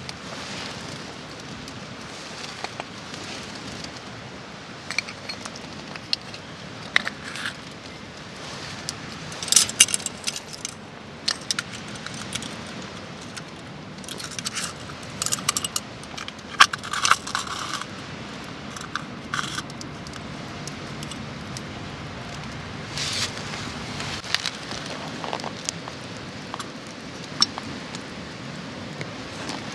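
Irregular light metallic clinks, clatters and scrapes of camp gear being handled, with some rustling, over a steady background hiss. The clatter comes in clusters, busiest about a third and a half of the way through.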